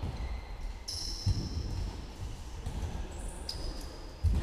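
Football being kicked and bouncing during play, a dull thump about a second in and another near the end, with a few short high squeaks.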